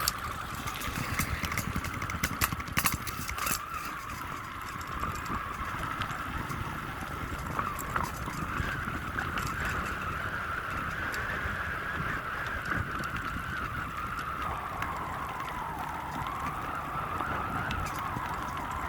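River water flowing steadily, with a few sharp clicks in the first few seconds.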